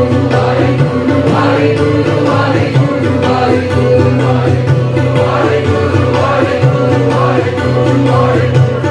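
Devotional simran music: voices singing over a steady held drone.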